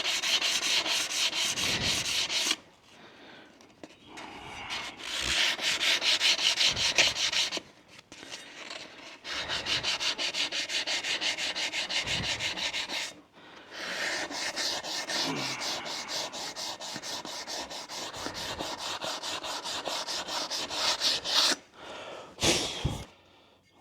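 Sanding down a fresh MIG weld on an aluminum wheel with a power sander: a fast, evenly rhythmic rasp, in several passes with short stops.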